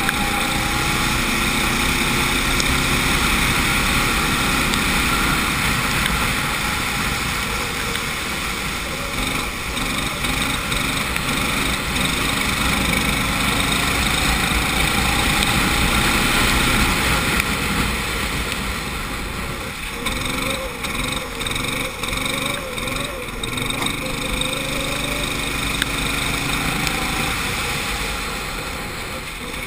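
Go-kart engine heard onboard, its pitch rising and falling as the kart accelerates down the straights and lifts off for corners. Past the middle the engine note drops and picks up several times in quick succession.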